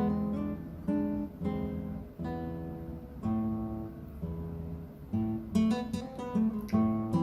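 Background music: an acoustic guitar playing plucked chords, one after another.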